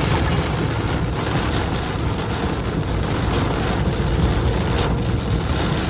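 Heavy rain as a steady, even rush of noise with a strong low rumble.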